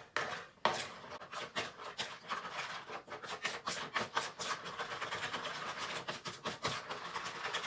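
A spoon stirring and scraping a thick tandoori spice marinade around a bowl, a quick, uneven run of scrapes and knocks.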